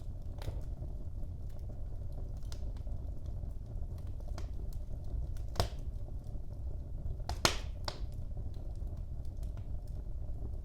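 Wood fire crackling in a fireplace: a steady low rumble of burning with scattered small crackles, and two louder pops about halfway through and about three quarters of the way in.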